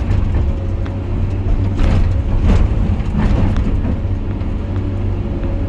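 Excavator's diesel engine running under load with a steady whine from the hydraulics, and a few short knocks as the bucket works the muck pile about two to three and a half seconds in.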